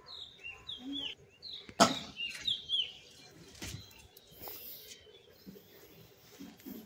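Small birds chirping in short, quick curved notes, with a sharp knock a little under two seconds in.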